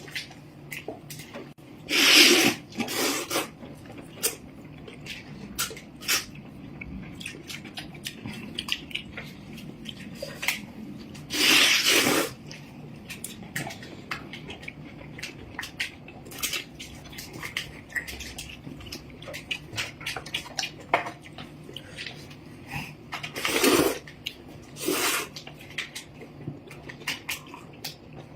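Eating sounds: noodles slurped in several loud noisy bursts, between a steady patter of small clicks from chewing and chopsticks against a bowl.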